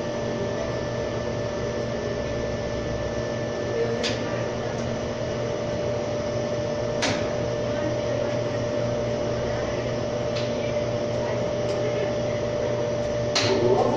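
Huebsch 35 lb commercial washing machine running with a steady hum and a constant tone, broken by a few sharp clicks. Near the end a rising whine begins as the drum speeds up.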